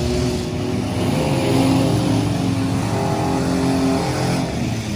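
Several full-size pickup truck engines revving at once in a demolition derby heat, their pitches rising and falling over one another.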